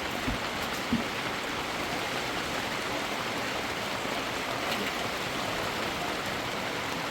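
Steady rain falling, an even hiss that holds at one level, with a couple of faint knocks in the first second.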